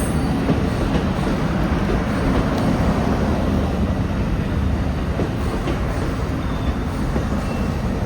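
Amtrak passenger train under way, a steady rumble of the wheels on the track.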